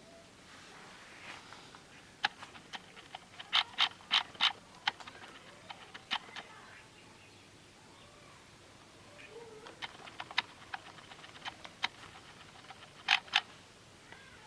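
Sharp clicks and taps of small hard objects, coming in irregular clusters with a quiet background between them; four loud clicks in quick succession come a few seconds in, and two more close together near the end.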